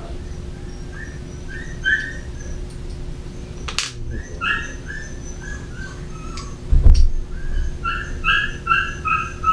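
A bird chirping in quick runs of four or five short notes, three times, each run stepping down in pitch. A sharp click comes about four seconds in, and a loud thump about seven seconds in.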